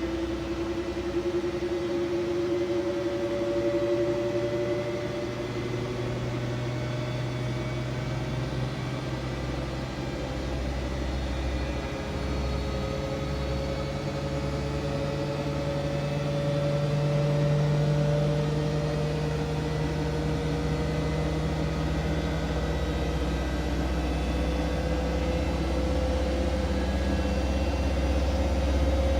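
Siemens Siwamat iQ 716 washing machine running, its motor whine rising slowly and steadily in pitch as the drum speeds up, over a constant low hum.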